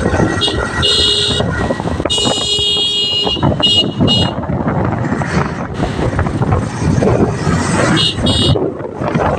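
Wind and road noise of a motorcycle running at speed on a highway, with a horn honking: short toots in the first second and a half, a longer blast about two seconds in, another short toot about four seconds in, and a double toot near the end.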